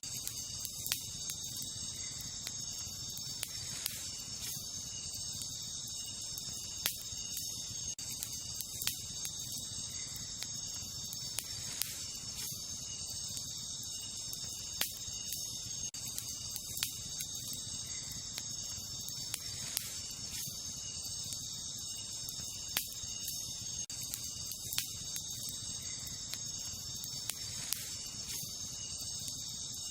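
Wood fire burning, with irregular sharp crackles and pops every second or two, over a steady high-pitched chorus of insects such as crickets.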